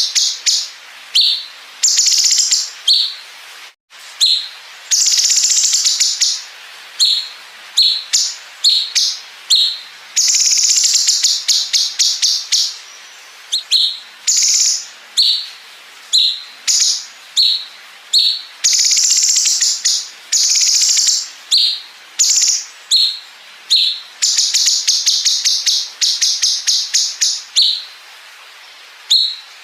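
Cucak cungkok songbird singing in long, rapid, stuttering trills of about a second each, alternating with short high chirps, over and over with only brief gaps.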